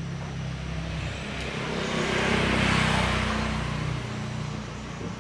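A motor vehicle passing by: its engine and tyre noise swell to a peak just past the middle and fade away.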